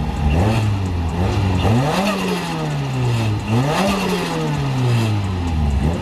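Turbocharged car engine being revved in neutral: two main revs about two seconds apart, each climbing quickly and then falling away slowly, with shorter blips near the start and end. The revs are accompanied by the hiss of a blow-off valve venting.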